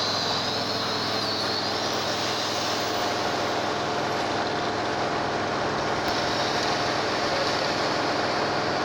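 Steady machinery noise with a constant hiss and a low hum, unchanging throughout; a faint wavering high whine sits on top for the first couple of seconds.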